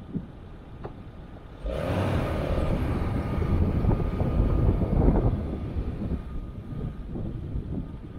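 Off-road 4x4's engine running quietly, then revving up suddenly about two seconds in and pulling under load through muddy ruts, easing off near the end.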